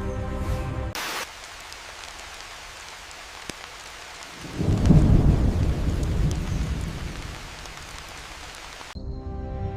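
Steady rain falling, with a roll of thunder about halfway through that rumbles up and dies away over a couple of seconds.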